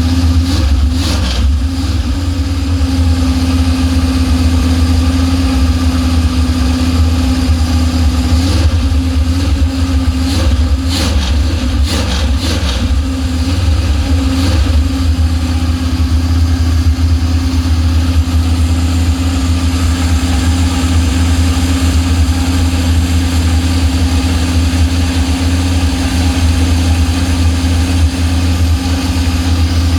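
Mopar 400 big-block V8 running at a steady idle on its freshly rebuilt carburetor and new tune-up parts, with a few short clicks about ten to fifteen seconds in.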